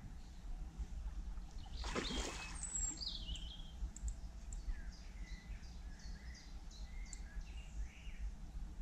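Small birds chirping and calling repeatedly over a low, steady rumble, with a short rushing noise about two seconds in.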